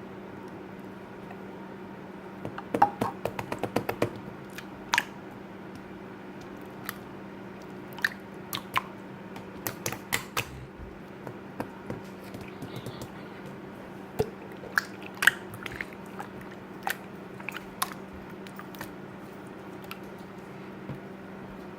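Scattered sharp clicks and taps, a quick cluster of them about three seconds in and single ones after that, over a steady electrical hum.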